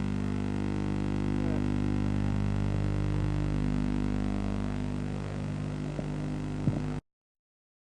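Steady low droning hum made of several even tones, easing slightly, then cutting off abruptly to silence about seven seconds in.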